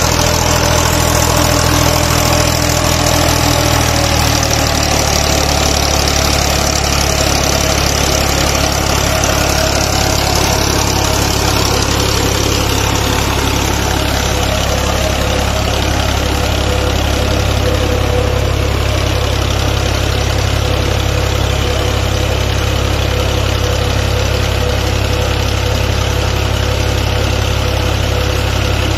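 Tractor diesel engine running steadily, driving a tubewell pump off its tyre; its pitch drops slightly about four seconds in, then holds.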